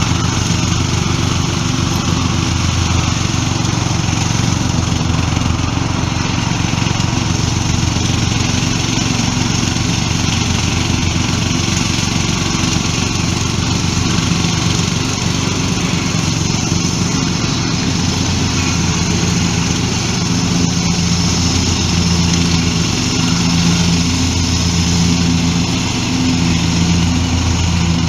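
Petrol lawnmower engine running steadily.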